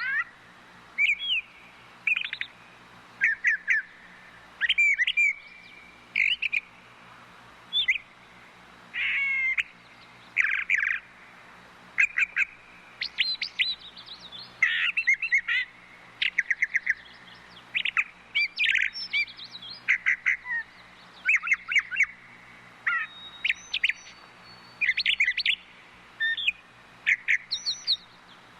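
Brown thrasher (brown thrush) singing: a long string of short, varied, whistled and chirping phrases, one every second or so, with brief pauses between them.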